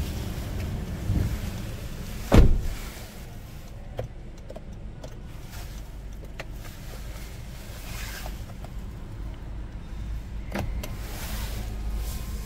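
Steady low cabin hum of a Honda WR-V RS's 1.5-litre four-cylinder engine at idle. One loud thump comes about two seconds in, and a few faint clicks of dashboard buttons being pressed follow.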